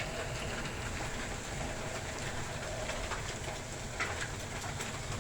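Steady rushing noise of a thunderstorm, rain with a low rumble on the microphone.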